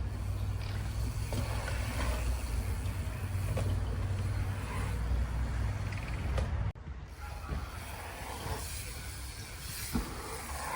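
Mountain bike being ridden on dirt jumps: wind rushing over the microphone and tyres rolling on dirt, with a few knocks. The sound cuts abruptly about two-thirds of the way through and picks up again quieter.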